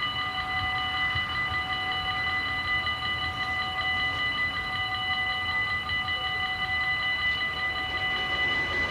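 Dutch level-crossing warning bells ringing steadily, warning of an approaching train.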